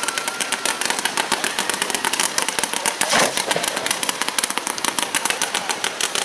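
Hand-fired fireworks going off close by: a rapid, unbroken string of cracks and pops, with one louder launch about three seconds in.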